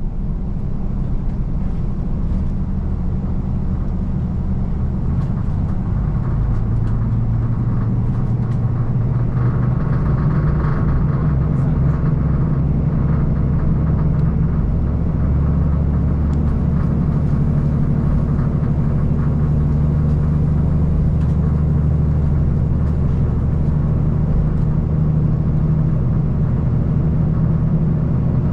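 KiHa 185 series diesel railcar underway: a steady low diesel engine drone with running noise. The engine note steps up in pitch a few seconds in and then holds steady.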